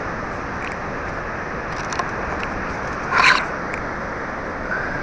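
Steady noise of surf and wind on the shore, with one short scraping rustle about three seconds in.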